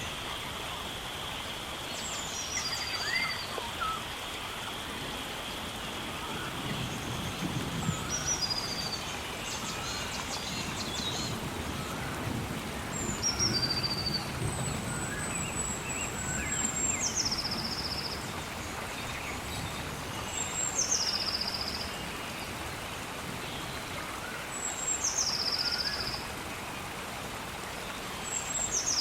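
A bird repeatedly gives a high call that drops in pitch, roughly every four seconds, one of them drawn out longer near the middle, over a steady outdoor hiss like light rain. A steady high tone fades out about a third of the way in.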